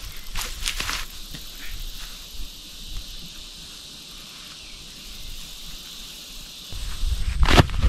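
Steady high chorus of crickets chirring. A few light clicks come in the first second, and near the end there is low handling rumble and one loud knock.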